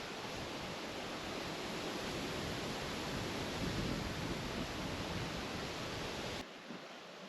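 A steady rushing noise that cuts off suddenly about six and a half seconds in, leaving a quieter background.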